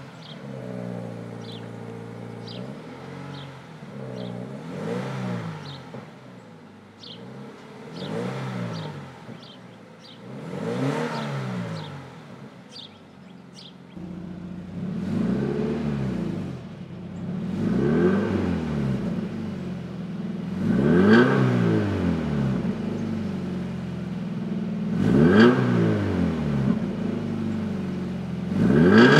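Scion FR-S's 2.0-litre flat-four boxer engine breathing through a Flowmaster cat-back exhaust, revved up again and again and dropping back to idle between blips. The revs get louder and deeper from about halfway through.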